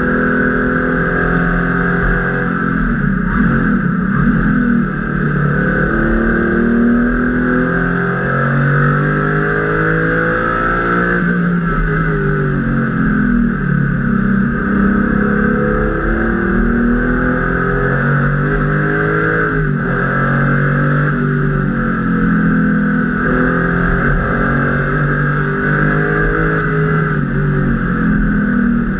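Porsche 993's air-cooled flat-six engine at racing speed, heard from inside the cabin. Its revs climb, drop and climb again repeatedly as the car is driven hard through the gears and corners.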